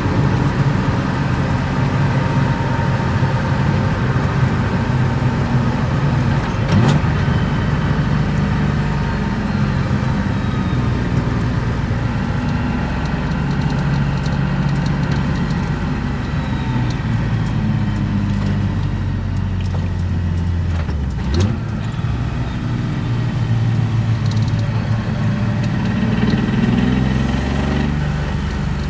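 Heard from inside the cabin, a BMW E36 325i's M50B25 inline-six with aftermarket headers and exhaust, running under changing load as the car is driven, its pitch rising and falling. Two short, sharp breaks come about 7 s and 21 s in, and the engine climbs in pitch again near the end.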